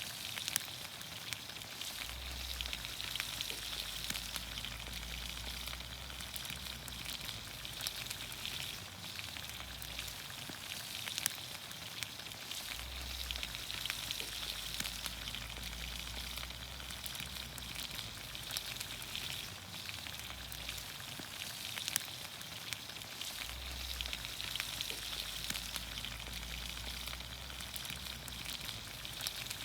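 Vegetables in olive oil sizzling steadily in a pan over a campfire, with crackles and a few sharper pops.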